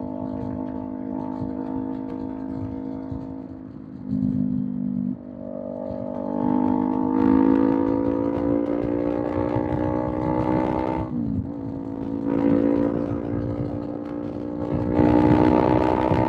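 Kawasaki Z400's parallel-twin engine through a Villain M1 slip-on exhaust on the move: steady at first, then accelerating with the pitch climbing from about five seconds in, a quick drop in pitch at an upshift about eleven seconds in, and pulling harder again near the end.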